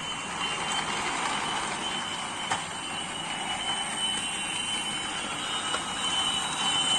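Motorised toy trains running around a plastic track: a steady whir of small motors and wheels rattling on the track, with a thin steady whine and a few faint clicks.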